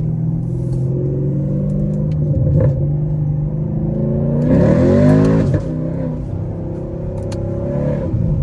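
Straight-piped Camaro SS V8 exhaust while driving. It drones steadily, then revs hard about four and a half seconds in, rising in pitch for about a second before dropping back. A few sharp exhaust pops come through, the crackle the driver calls "popcorn".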